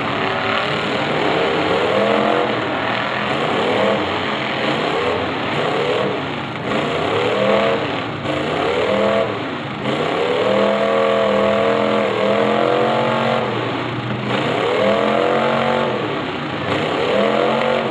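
Demolition derby cars' engines revving hard and dropping back again and again, each rev rising and then falling in pitch every second or two, over a steady din of engines running.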